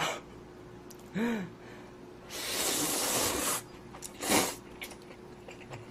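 A man's breathing and mouth noises while eating hot, spicy stew. There is a short voiced hum about a second in, then a long breathy exhale, and a sharp, shorter breath a little after four seconds.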